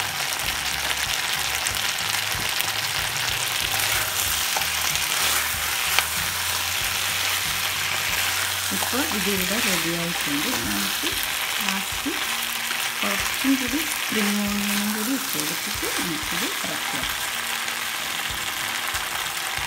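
Chilli chicken sizzling steadily in a non-stick wok while being stirred with a wooden spatula, with a couple of sharp taps of the spatula against the pan.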